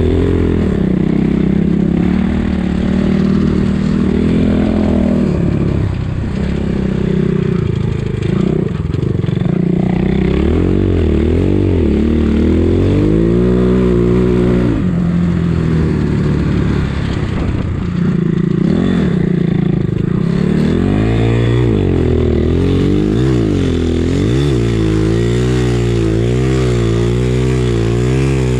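Enduro motorcycle engine running under load as the bike is ridden through soft, slushy snow, its revs rising and falling again and again with the throttle.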